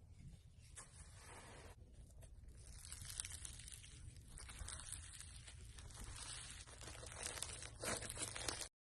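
Slime being squeezed and stretched by hand, a dense crackle of tiny clicks and pops that grows louder and then cuts off suddenly near the end.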